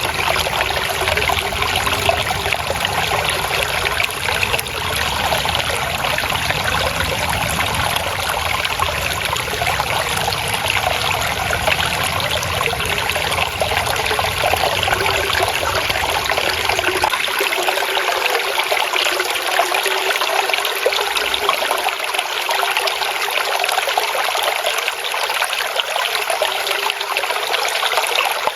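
Flowing water trickling and splashing steadily, the babbling sound of a small stream. A low rumble underneath cuts out a little past halfway, leaving only the brighter trickle.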